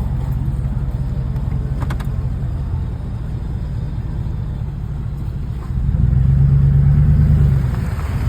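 Truck engine running steadily, then revving louder about six seconds in for a second and a half before easing back.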